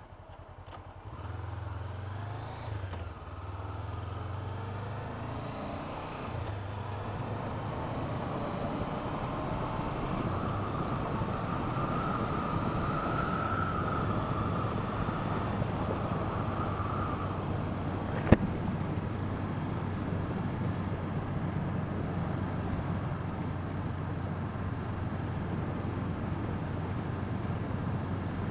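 Honda CB500F parallel-twin engine pulling away and changing up through the gears. Wind noise on the helmet camera grows into a steady rush as speed builds. A single sharp click comes about eighteen seconds in.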